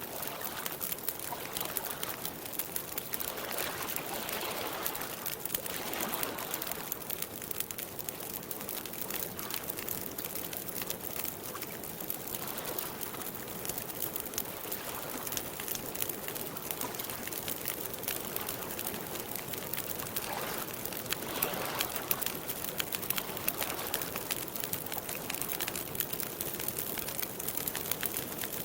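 Campfire crackling with many small, rapid pops, over small waves lapping at a lakeshore that swell and fade every few seconds.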